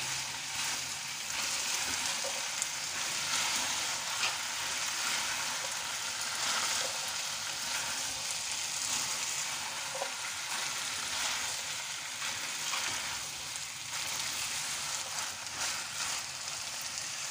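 Chicken keema and diced potatoes sizzling as they are stir-fried in a wok, with a wooden spatula stirring steadily and scraping and tapping against the pan.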